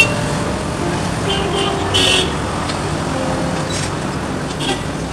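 Road traffic running steadily, with a short car-horn toot about two seconds in and a sharp click right at the start.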